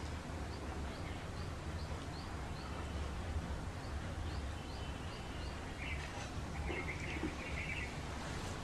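A bird chirping in the background, short high rising chirps about three a second, with a busier patch of sound about six seconds in. Under it runs a steady low hum.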